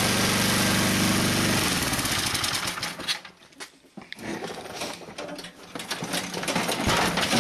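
John Deere 1032 snowblower engine running steadily, then cutting out about two seconds in; after that, irregular scuffing and rattling handling noise.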